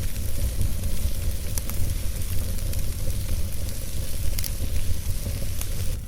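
Wood campfire burning, with a steady hiss and scattered sharp crackles and pops over a low rumble.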